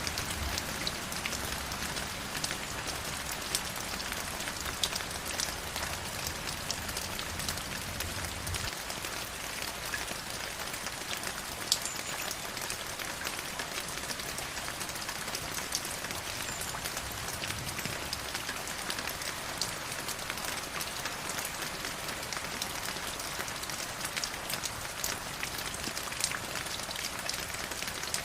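River water flowing steadily, with many small splashes and droplet ticks.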